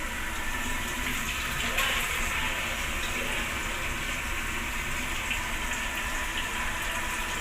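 Water running steadily from a sink tap while hands are washed, a continuous rush of water with a low steady hum underneath.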